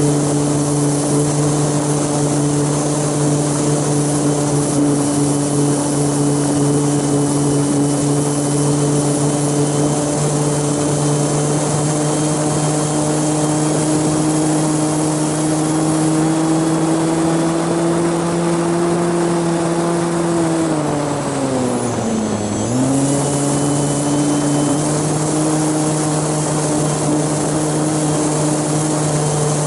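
Propeller motor of the camera-carrying aircraft running at a steady pitch, with a faint high whine and a rush of wind noise. About 21 seconds in, the motor is throttled back sharply, its pitch dipping low, then it spools back up within a couple of seconds.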